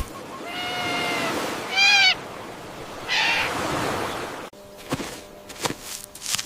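Three short, high-pitched animal calls, the second one wavering, then an abrupt switch to scattered clicks over a low steady hum.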